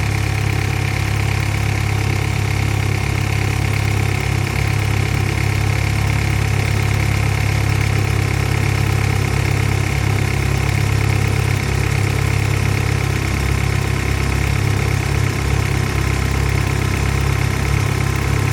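BMW M3 engine idling steadily on a cold start after sitting unused for five days, running evenly throughout.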